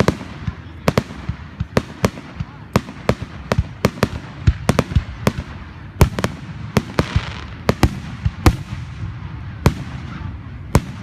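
Aerial fireworks going off in a fast, irregular series of bangs, about two a second, over a low rumbling echo. The loudest bang comes about six seconds in, and bursts of crackling hiss come between the bangs.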